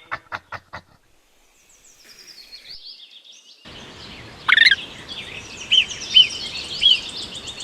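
Groundhog calls: a quick run of clicks in the first second, then after a pause a sharp high whistle that falls in pitch and a few short chirps, over an outdoor background with a high steady trill.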